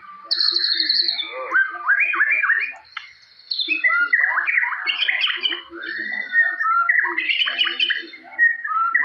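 White-rumped shama (murai batu) in full song: a run of quick rising whistled notes, a short pause about three seconds in, then loud varied whistles and chattering phrases.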